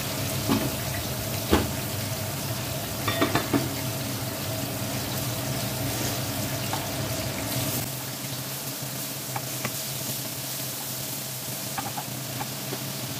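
Vegetable slices frying in hot oil in a frying pan, a steady sizzle. A slotted spatula clicks against the pan a few times in the first few seconds, loudest about a second and a half in, as the pieces are turned.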